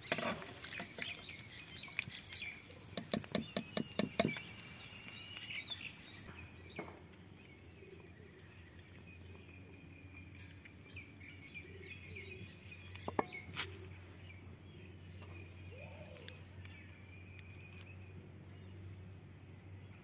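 Chicken tikka pieces sizzling in hot oil in a steel kadai, with a quick run of clicks as the skimmer knocks against the pan. About six seconds in the sizzle stops, and small birds chirp over a low steady hum with a couple of sharp clicks.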